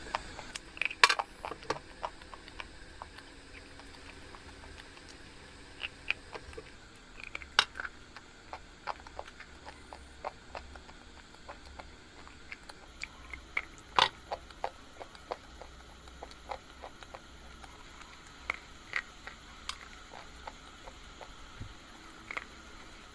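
Scattered, irregular small crackles and clicks, with a few sharper snaps, typical of a crunchy material being slowly crushed or handled, over a faint steady hiss.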